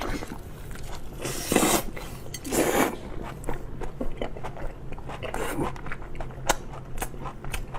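Close-miked chewing and biting of roasted meat: wet smacking clicks throughout, with a few louder mouthfuls about one and a half and two and a half seconds in.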